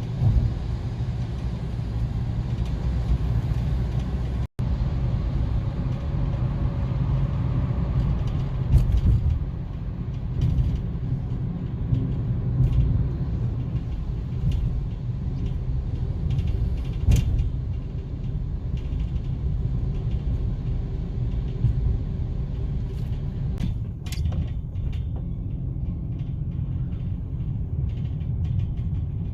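A steady low rumble with scattered light taps and clicks throughout, cutting out for an instant about four and a half seconds in.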